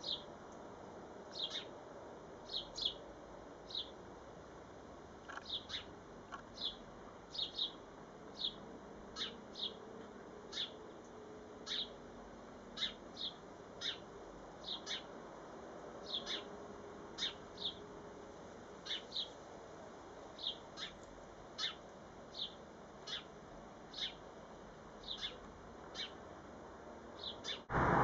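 A small bird giving short, high chirps, one or two at a time about every second, over a faint steady background hiss. Right at the end a loud noise cuts in suddenly.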